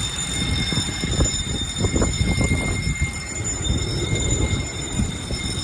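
Heavy rain, heard as a loud, uneven low rumble that surges and eases over a few seconds.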